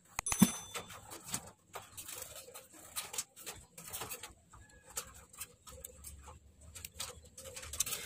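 Faint bird calls, including short high whistled notes about half a second in, with scattered light clicks and taps.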